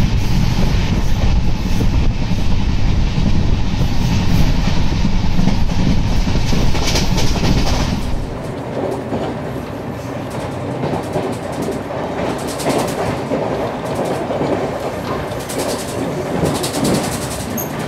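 Double-decker express train running along the track at speed, heard from aboard: a loud, steady rumble of wheels on rails. About eight seconds in it drops to a quieter run, with the clickety-clack of wheels passing over rail joints coming in a few clusters.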